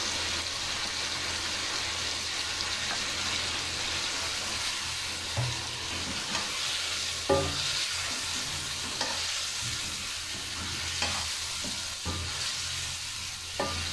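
Chicken pieces sizzling as they fry in a non-stick karahi, with ground green chilli just added and being stirred in with a spatula. Now and then a utensil knocks sharply against the pan.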